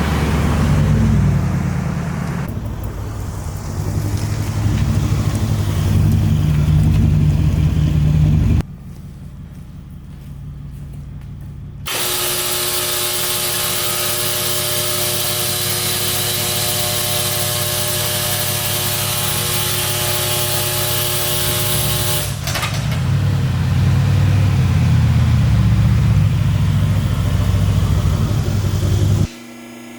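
Mercedes-AMG C63 S engine running with a deep rumble, broken by abrupt cuts. Through the middle stretch it gives way to a loud, steady hiss with a held mechanical tone, then the rumble returns.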